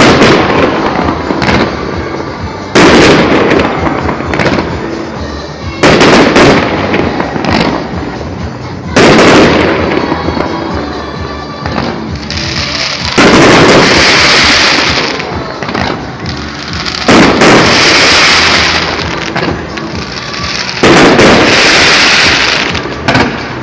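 Fireworks display: aerial shells bursting with a loud bang about every three to four seconds, seven in all, the later bursts followed by a long crackling fizz. Music plays underneath.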